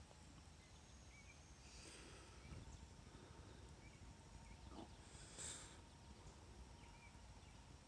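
Near silence with a low background rumble and a few faint, short bird chirps scattered through it.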